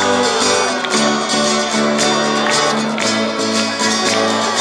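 Acoustic guitar strumming the instrumental passage of a Spanish-language worship song between sung lines.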